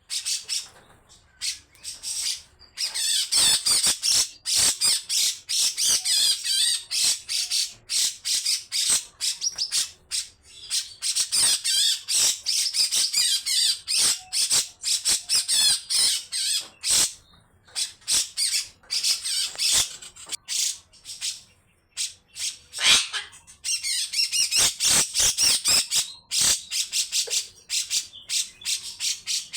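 Cucak jenggot (grey-cheeked bulbul) giving long, harsh, rasping chattering calls in rapid runs of notes, in bouts a few seconds long separated by brief pauses.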